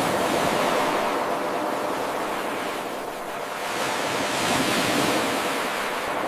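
Ocean waves washing in: a steady surf hiss that eases about three seconds in, builds again to a second peak around five seconds, and falls away near the end.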